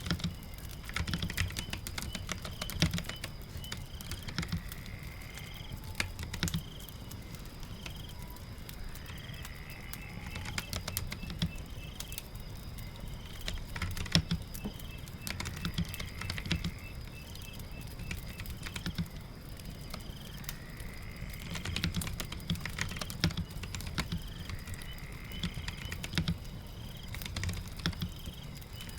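Typing on a keyboard in irregular bursts of quick key clicks, over a steady patter of rain.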